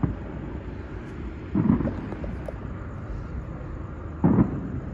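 Distant fireworks going off: two muffled booms about two and a half seconds apart, over a low background rumble.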